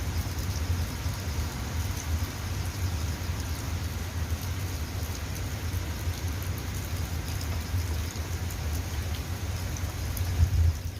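Steady rain falling, with scattered drops ticking on surfaces over a steady low rumble. There is one louder drop or knock about ten seconds in.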